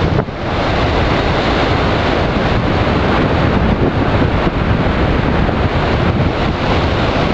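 Strong wind buffeting a small camera's microphone over heavy surf breaking on the shore, a loud steady rush with a brief drop just after the start.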